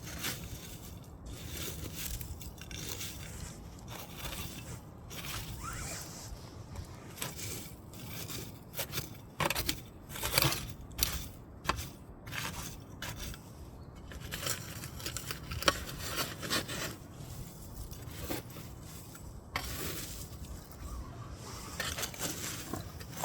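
Wood fire crackling, with irregular sharp pops and snaps over a steady low noise, busiest and loudest about ten to sixteen seconds in.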